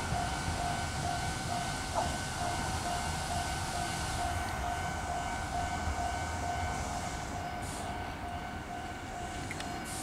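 Kintetsu electric commuter train rolling slowly into a station: a low rumble of wheels and motors, under a steady pulsing high tone that runs throughout, with a single click about two seconds in.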